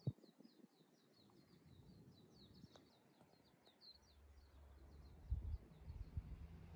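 A small songbird singing a quick run of short, high chirps. From about four seconds in, wind buffets the microphone with low rumbling and a few thumps.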